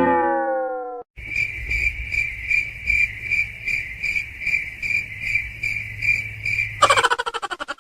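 Crickets chirping in a steady, even rhythm of about three chirps a second, over a low hum. It is preceded by a falling tone that cuts off about a second in. Near the end comes a fast rattle of pulses that falls in pitch.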